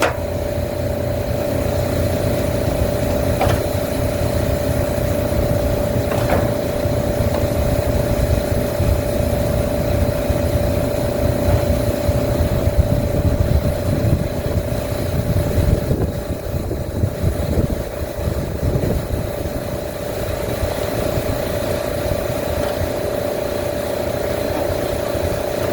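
Steady hum of running machinery, with a constant mid-pitched tone over a low rumble and two faint clicks in the first few seconds.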